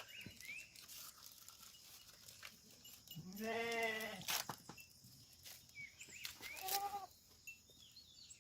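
Bleating from the penned sheep and goats: one long, wavering bleat about three seconds in and a shorter one near seven seconds, with a few light knocks between.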